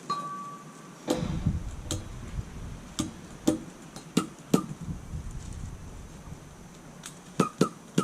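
A brief high beep at the very start, then about a dozen irregular sharp clicks and knocks, with a low rumble about a second in.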